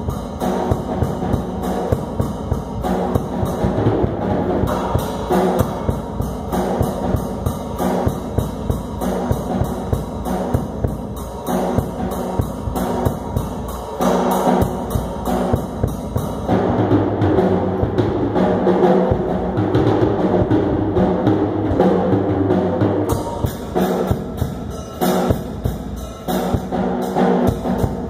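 Drum kit playing a steady rhythm, with bass drum and snare strokes over pitched accompanying music. The cymbals and high end drop out for several seconds midway, then come back.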